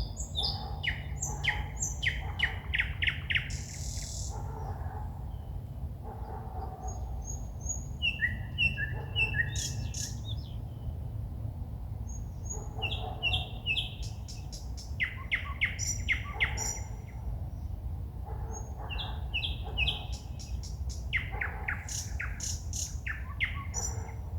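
A songbird singing at night in loud phrases of rapidly repeated notes, held whistles and high trills, separated by short pauses, over a steady low background rumble.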